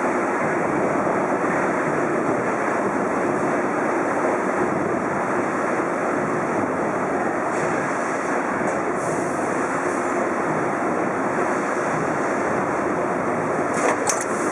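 Amada Pega 357 CNC turret punch press running steadily during a test of its repaired auto-index stations, a continuous mechanical whir, with a few short clicks near the end.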